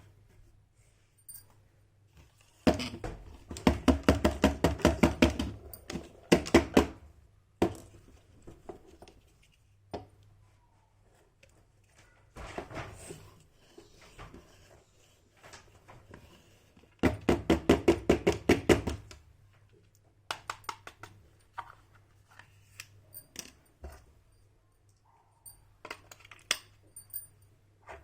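Small toy pieces being handled, in bursts of rapid, evenly spaced clicking: a long one about three seconds in, a shorter one just after, and another about two-thirds through. Quieter knocks and taps fall in between.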